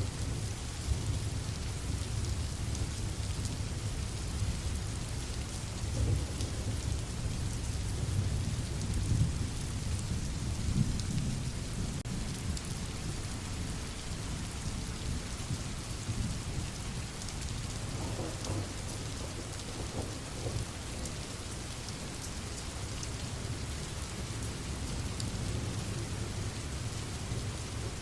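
Steady heavy rain falling, with low rolling thunder rumbling underneath that swells several times in the first half.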